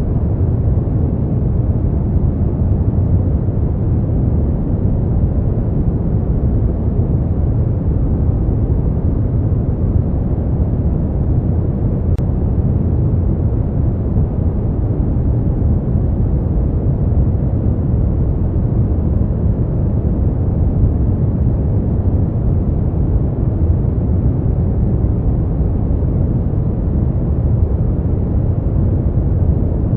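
Steady, unchanging noise from a sleep and relaxation noise track, deep and rumbling, with most of its weight in the bass and little hiss on top.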